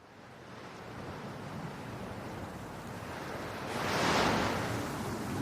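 Steady rushing noise fading in from silence, swelling louder for about a second around four seconds in.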